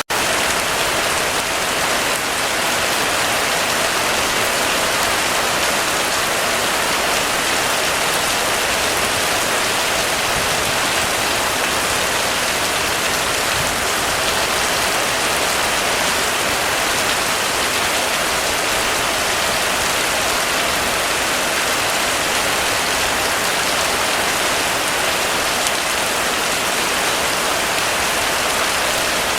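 Heavy rain falling steadily, a dense, even hiss without let-up.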